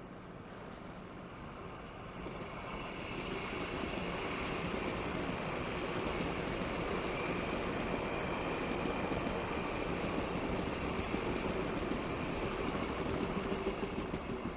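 Puyuma Express tilting electric train passing slowly at a restricted 40 km/h, wheels running on the rails. It grows louder over the first few seconds, holds steady as the carriages go by, then starts to fade near the end.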